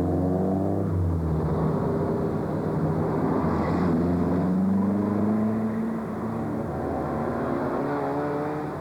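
Classic car engine running on the road, its pitch rising in the middle as it accelerates, then easing back.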